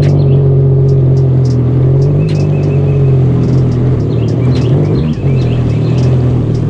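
Jet ski engine running at a steady low speed, a loud, even drone that wavers slightly in pitch, with scattered light ticks over it.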